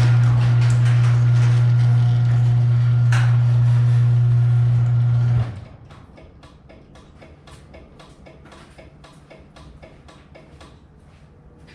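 Garage door opener motor running the door on its newly replaced springs, a loud steady hum that stops abruptly after about five and a half seconds. Faint scattered clicks follow.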